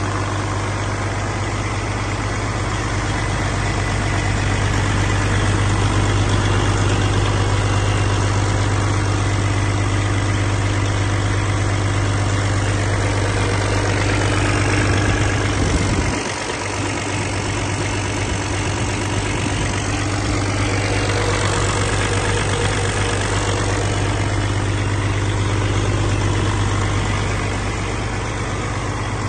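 2013 Paccar MX-13 12.9-litre inline-six diesel engine running steadily on a test run, with a brief dip in level about halfway through.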